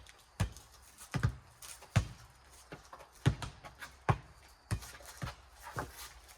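Rubber playground ball in a four square rally, bouncing on the ground and slapped back by hands: a string of sharp thuds, about one every half second to second.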